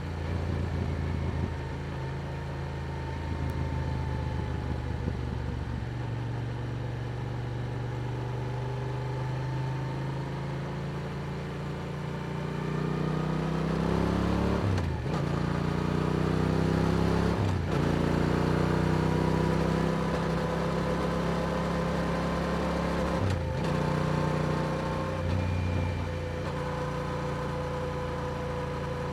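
Yamaha R7's parallel-twin engine through an Akrapovic exhaust while riding: a steady cruise, then rising in pitch as it accelerates about halfway through, with three quick breaks in the sound at the gear shifts, and settling back to a steady cruise near the end.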